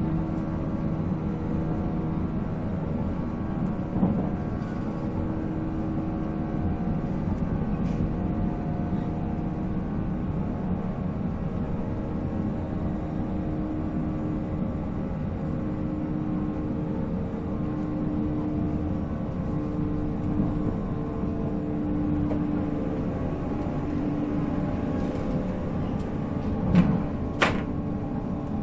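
485-series electric train running at steady speed: the MT54 traction motors and gearing hum in a steady tone over the rumble of wheels on rail. There are a few sharp knocks, two of them close together near the end.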